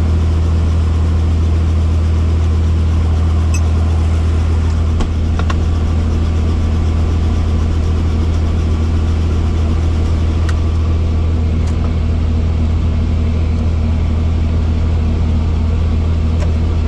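Helicopter engine and rotor running with a steady low drone, with a few faint clicks.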